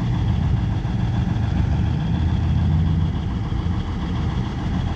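A car's engine running at low revs with a deep, steady rumble, swelling a little in the middle as the car rolls slowly past.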